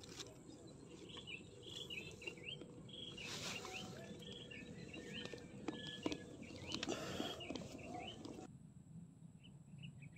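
Small birds chirping in short, quickly repeated notes, with some rustling and a few light clicks; the sound drops off suddenly near the end, leaving only faint chirps.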